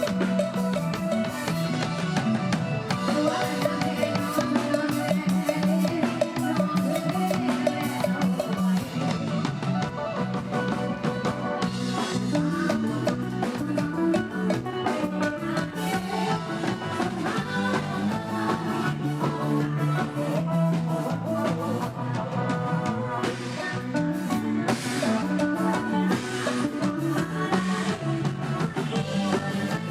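Live band music with a drum kit and guitar playing a steady beat.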